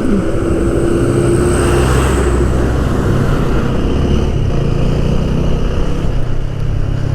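Motorcycle engine running steadily while riding, a continuous low rumble under a haze of road noise.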